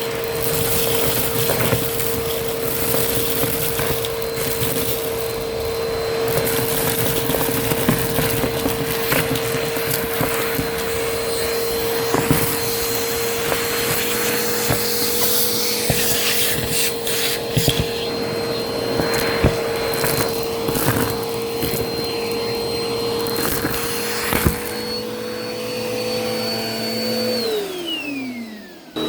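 Vacuum cleaner running steadily with a high motor whine, with scattered crackles and clicks of crunchy debris being sucked up. Near the end it is switched off and the whine falls away as the motor winds down.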